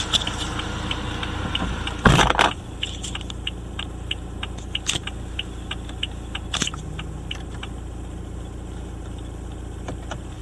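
BMW B47 2.0-litre four-cylinder turbodiesel running. A loud short burst about two seconds in, then it settles to a quieter steady idle with scattered light clicks.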